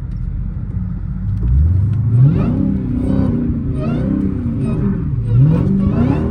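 Dodge Hellcat's supercharged 6.2-litre V8 running at a low rumble, then revving up sharply about a second and a half in, with the revs rising and falling several times after that.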